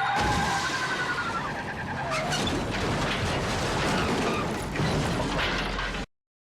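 TV action-scene sound effects of destruction: a steady low rumble under a noisy crackling wash with scattered crashes and shattering debris. The sound cuts to silence near the end.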